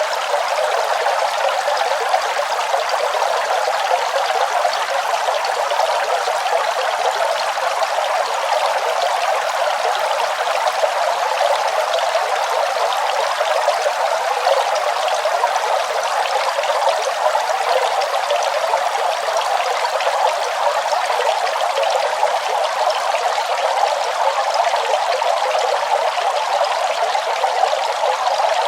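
Running water trickling and pouring in a steady, unbroken stream.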